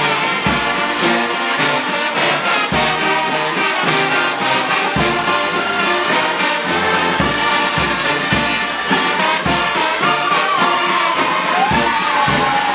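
Brass band playing parade music, horns holding sustained chords over a low drum beat roughly every two seconds.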